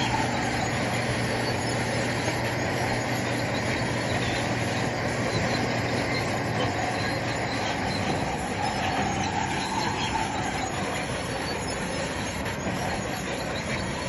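Crawler bulldozer running steadily as it works, with a wavering high squeal from its steel tracks at the start and again about ten seconds in.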